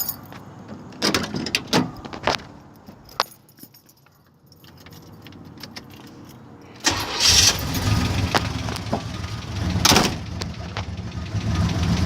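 A few clunks and jingling keys, then about seven seconds in the 1980 Chevy El Camino's engine cranks, starts and idles with a fast, steady clicking, which the owner thinks comes from the torque converter.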